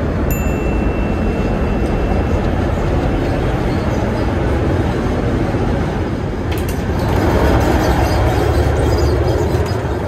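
Passenger train running at speed, a steady rumbling running noise that swells about seven seconds in. A faint steady whistle-like tone sounds in the first two seconds, and there is a short click about six and a half seconds in.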